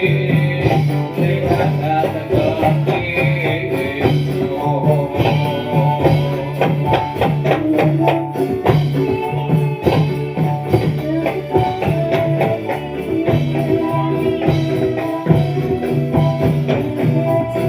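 Live dolalak folk-dance music: an instrumental passage with jingling frame-drum percussion keeping a steady, repeating beat under a melody line.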